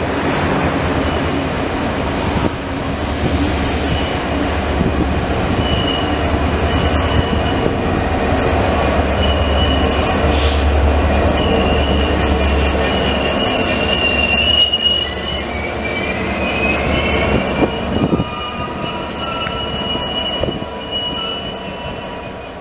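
Israel Railways diesel locomotive and double-deck passenger coaches moving through the station. There is a deep, loud engine rumble, strongest midway, with thin high wheel squeals coming and going on the rails. It fades out near the end.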